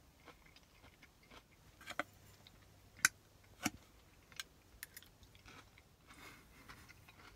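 A person chewing food close to the microphone, with a few sharp clicks and smacks, the loudest about three seconds in.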